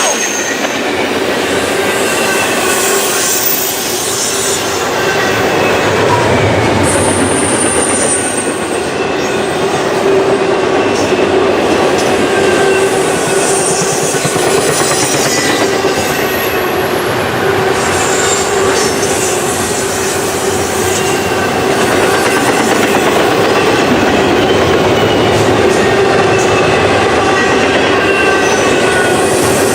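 Freight train cars rolling past on steel wheels in a steady, loud run, with high wheel squeal coming and going every several seconds.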